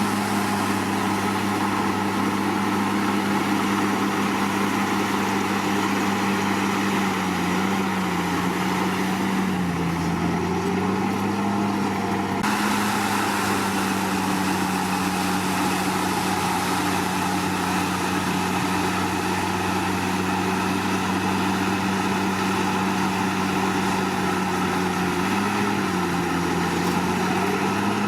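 Komatsu D61PX bulldozer's diesel engine running steadily, its pitch sagging briefly a few times.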